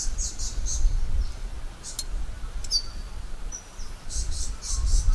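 Birds calling in the bush: rapid trains of high chirps at the start and again near the end, and a single short downward chirp near the middle. A low rumble runs underneath, and there is one light click about two seconds in.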